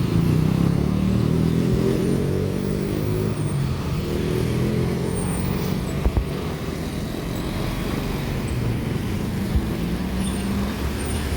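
Large diesel truck engine running low and heavy as it moves past, loudest at the start and easing a little after. Two short knocks come about six and nine and a half seconds in.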